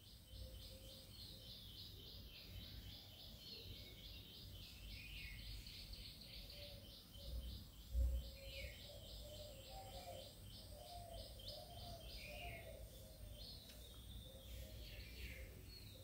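Faint bird chirping: a fast run of repeated high chirps over the first half, then scattered, falling chirps. A single low thump about eight seconds in.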